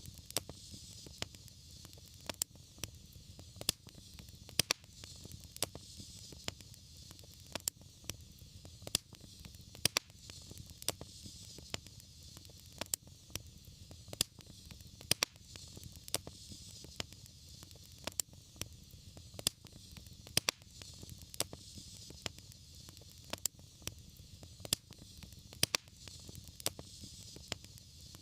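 Wood fire crackling: frequent sharp pops and snaps over a steady low rumble and a soft hiss.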